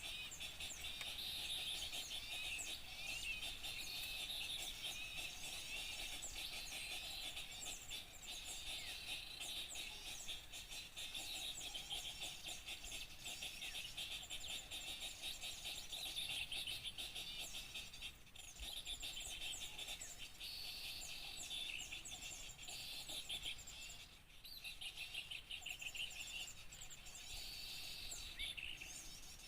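A dense chorus of many small songbirds chirping and twittering rapidly and continuously, thinning briefly about three-quarters of the way through. It is a bird-lure recording meant to draw small birds in.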